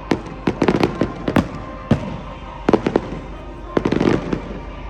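Fireworks exploding in a display: clusters of sharp bangs and crackles, one burst after another, with the loudest volleys about half a second in and again near the end, over music playing underneath.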